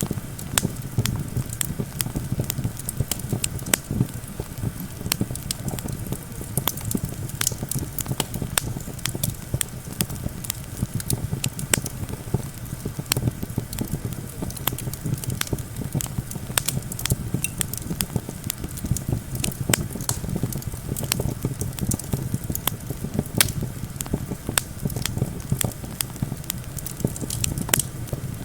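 Campfire crackling, with many sharp irregular pops and snaps, over a steady low rush of wind.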